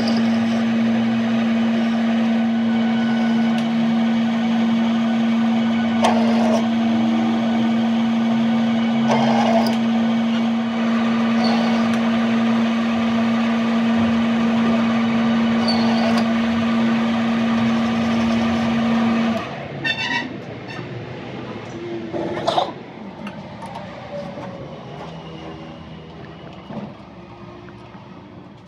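A machine running with a steady hum that cuts off suddenly about two-thirds of the way in, followed by a few quieter knocks and clicks.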